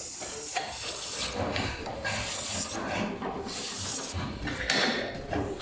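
Hand tool scraping or rasping across wood in repeated strokes, about one a second.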